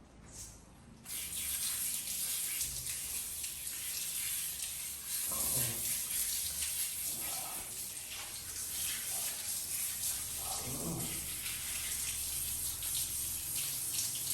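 Water running steadily, coming on about a second in, with a few short voice sounds over it.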